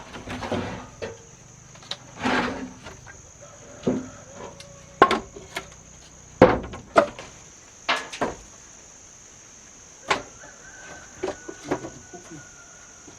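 Irregular wooden knocks and clatters, about a dozen, with two short scraping swishes among them, over a steady high-pitched insect buzz.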